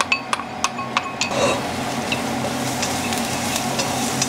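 Wooden chopsticks tap and scrape against a ceramic bowl as shallots, garlic and green onion are pushed into a hot oiled wok. About a second and a half in, a steady frying sizzle takes over, with light chopstick clicks as the aromatics are stirred.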